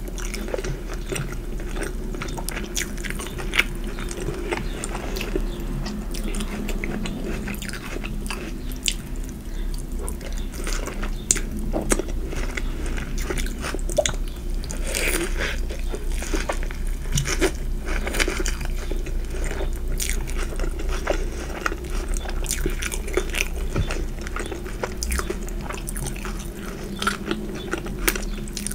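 Close-miked chewing and biting of crunchy fried food, with many short, crisp crunches and wet mouth sounds throughout.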